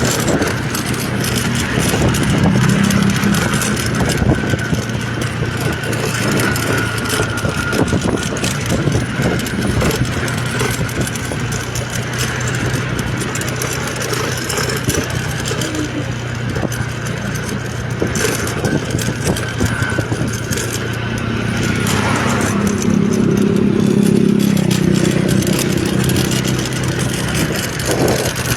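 A vehicle engine running steadily, its pitch and loudness rising twice as it speeds up, with road or wind noise around it.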